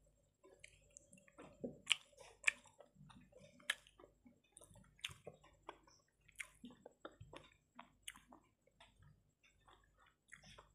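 Close-up chewing, with irregular wet smacks and clicks as a person eats rice and fish curry by hand, and soft squelches of fingers mixing rice on the plate.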